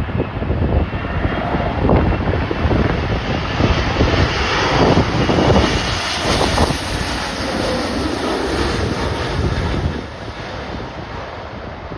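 A jet airliner's engines swelling as it passes about midway, then fading, over strong wind buffeting the microphone in gusts.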